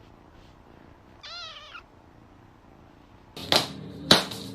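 A cat meows once, a short arching call about a second in. From about three seconds in come a few sharp, loud knocks, two of them standing out.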